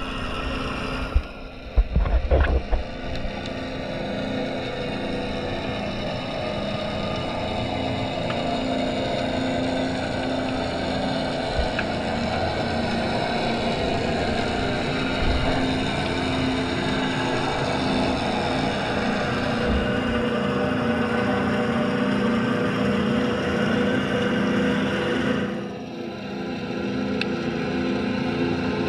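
Underwater recording of a steady engine hum with several low steady tones, typical of a boat's motor heard through the water. A few low thumps come about two seconds in, and the sound dips briefly near the end.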